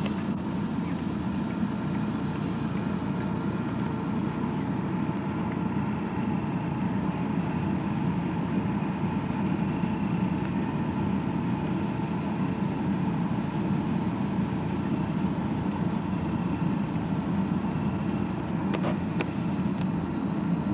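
Car engine running steadily, heard from inside the car as a continuous low hum. A couple of faint clicks come near the end.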